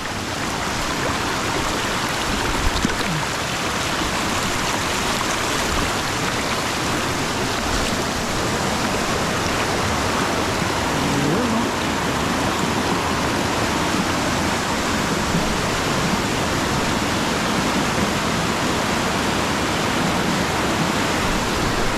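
Rushing stream water, a steady even rush with no pauses.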